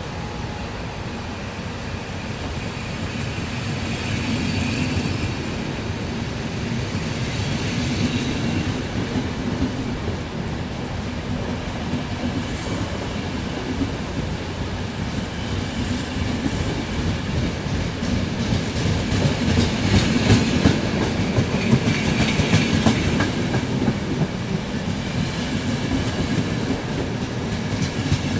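A train running past on the line, its wheels clattering over the rail joints. The clatter grows louder past the middle.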